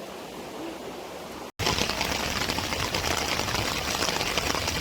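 Heavy rain coming down hard, a dense steady rush with rapid pattering, loud from an abrupt cut about one and a half seconds in; before the cut, a quieter steady rush of water.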